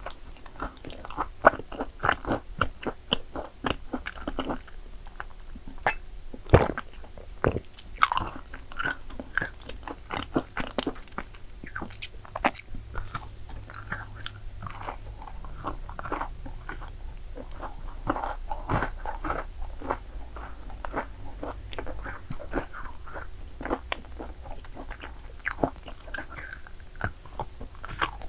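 A person biting and chewing crunchy yakgwa cookies: a continuous, irregular run of crisp crunches with one sharper, louder crunch about six and a half seconds in.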